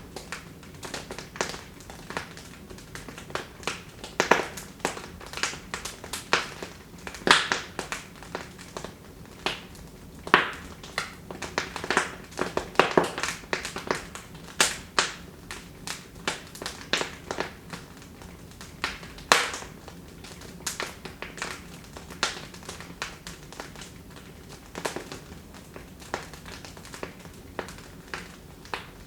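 Wood fire burning in a fireplace, crackling with irregular sharp pops and snaps of varying loudness over a soft hiss.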